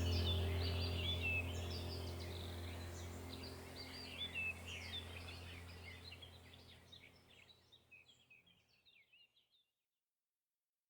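A chorus of small birds chirping and twittering over a low steady drone. Both fade out over several seconds, and it is nearly silent from about seven seconds in.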